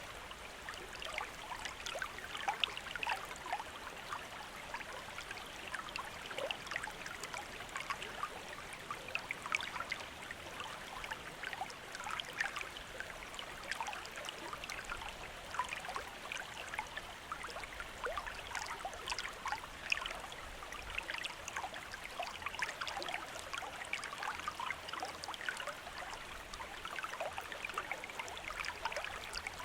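Shallow stream running over stones: a steady babble of trickling, splashing water.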